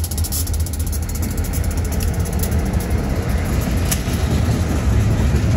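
Steady low vehicle rumble, with a faint fast ticking higher up that fades out about two seconds in.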